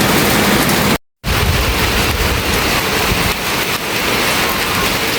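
Very heavy rain pouring down as a loud, steady hiss, cutting out for a moment about a second in and then resuming.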